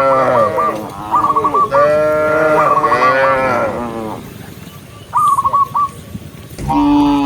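Cows mooing: long, drawn-out moos from several animals, two overlapping in the first four seconds, then a pause and another moo near the end.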